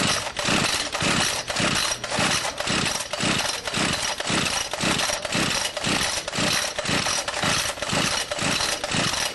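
Seized two-stroke engine of a Kubota brush cutter being turned over, chuffing evenly about twice a second without firing. Compression leaks past the scored piston and stuck piston rings, so it will not start.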